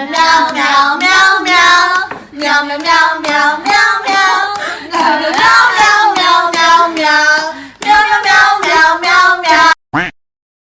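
A high voice singing a tune in short phrases, with no clear words, cutting off suddenly near the end.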